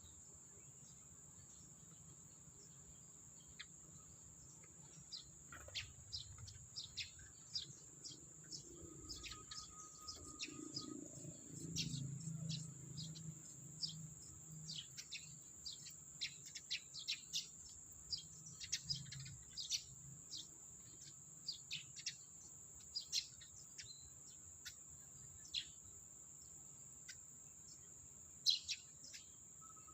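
Sparrows chirping in many short, quick calls, with a steady high insect whine behind them and a low rumble for a while in the middle.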